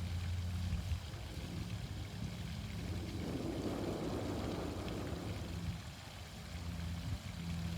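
Fountain water splashing steadily over a low, even hum, with a soft swell of rushing noise a few seconds in.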